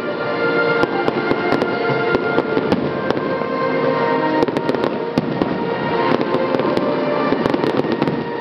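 Aerial fireworks going off in a dense, continuous stream of sharp cracks and bangs, with music playing underneath.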